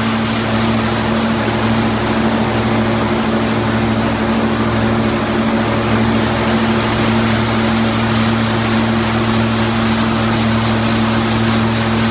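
Hazelnut husking thresher (patoz) running steadily as hazelnuts are fed through to strip off their husks. It makes a constant machine drone, a steady low hum under an even rushing noise.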